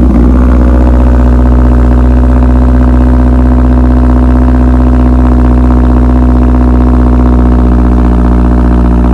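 Modified car engine idling steadily and loudly just after a cold start.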